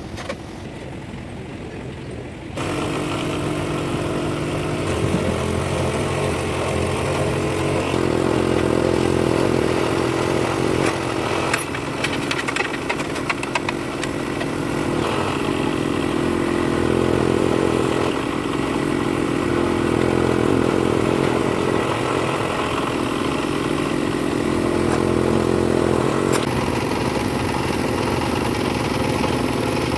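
An engine running steadily, coming in abruptly about two and a half seconds in, its level swelling and easing every few seconds.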